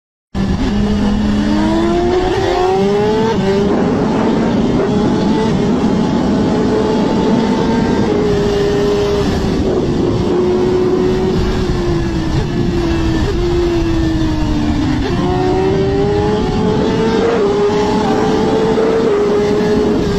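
Racing motorcycle engines at high revs, cutting in abruptly after a brief silence. The pitch climbs to a gear change a few seconds in, sags slowly, then climbs again about three-quarters of the way through.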